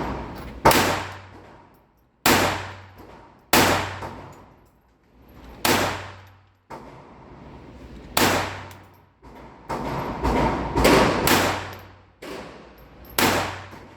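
Taurus TX22 .22 pistol firing a slow string of about a dozen single shots at irregular intervals, each with an echoing tail; a few of the shots are fainter.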